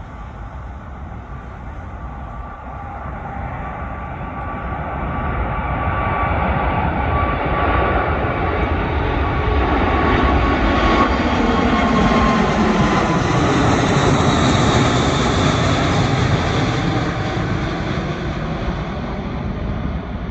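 Four turbofan engines of an Airbus A380-800 at takeoff power, a jet roar that swells as the airliner passes, peaks around the middle and fades, with whining tones that slide down in pitch as it goes by.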